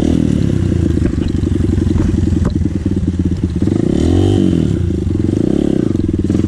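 Dirt bike engine running with a fast, even firing beat, revved up and back down twice in the second half.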